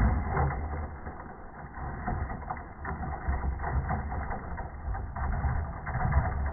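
Traxxas Sledge Hammer VXL electric RC monster truck driving hard, its brushless motor and tyres giving a continuous rough noise that rises and falls, with wind buffeting the microphone.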